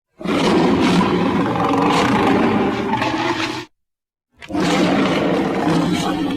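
Dragon roar sound effect, heard twice: a long, rough roar of about three and a half seconds that cuts off abruptly, then after a second of dead silence a second roar that begins to fade near the end.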